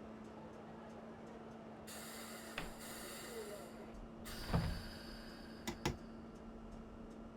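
Inside a train cab: a steady hum, with two spells of hiss and a few sharp clicks, the loudest about halfway through.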